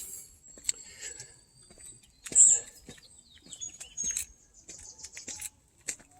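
Footsteps crunching along a dirt forest trail, irregular scuffs and clicks, with a few short high bird chirps, one clearer chirp about two seconds in.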